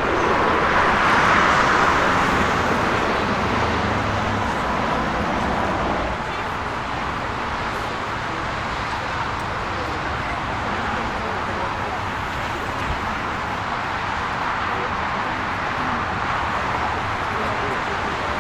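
Steady engine noise, louder for the first six seconds, then easing to a constant level.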